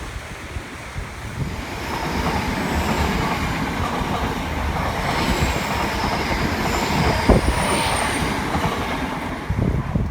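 A train passing on the line, its wheels running on the rails as a steady rumble that grows louder about two seconds in, with faint high-pitched wheel squeal and a few sharp clicks from the rail joints.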